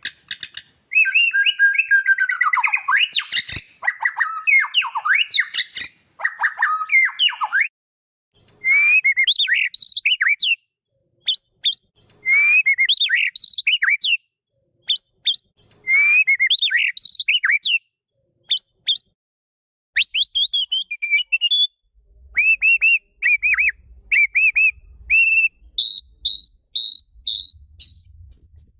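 White-rumped shama (murai batu) singing loud, clear whistled phrases. A long, varied warble comes first, then three similar phrases a few seconds apart. Near the end there is a run of short repeated notes that climb step by step in pitch.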